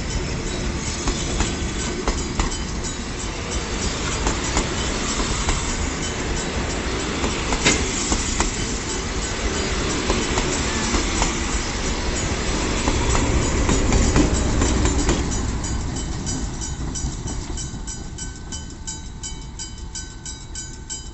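Heritage passenger carriages rolling past over the rails with a steady rumble and clacking wheels. The noise is loudest about two-thirds of the way through, then fades as the last carriage clears. A level crossing bell rings about three times a second and stands out clearly as the train noise dies away.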